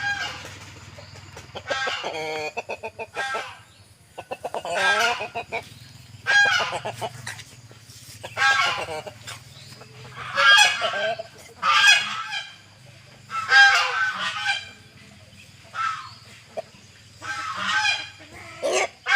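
Aseel chickens calling repeatedly: about a dozen loud, pitched calls, each up to a second long, coming every second or two. A faint low hum sits underneath.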